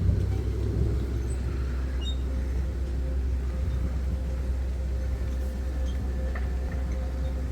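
Steady low rumble, with a faint steady hum and scattered faint short high chirps over it.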